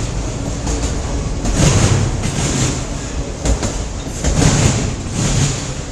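A CN train's cars rolling past: a steady rumble that swells and eases every second or so, with scattered sharp clicks of wheels over the rail joints.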